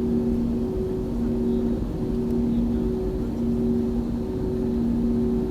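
Cabin noise inside an Airbus A320 on the ground before takeoff: a steady low rumble with a two-note hum that keeps dropping out for a moment, about once a second.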